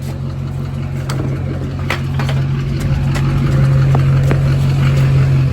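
Straight-piped 2001 LB7 Duramax diesel V8 running with a steady deep exhaust drone that grows louder about halfway through, with a few sharp clicks over it.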